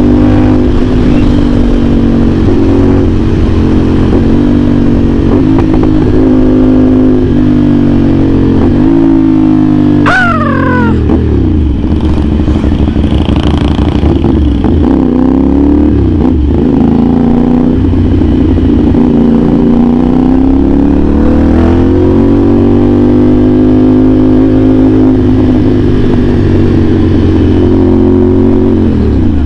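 CFMOTO 450SR S parallel-twin engine with an aftermarket AR exhaust, running under way. Its pitch rises and falls with throttle and gear changes, with a sharp rev about ten seconds in.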